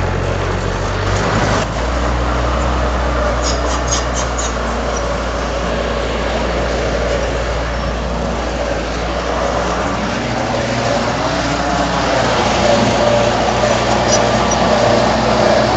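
Komatsu D31 bulldozer's diesel engine running steadily under work, with a few short metallic clinks about four seconds in; the engine grows louder over the last few seconds.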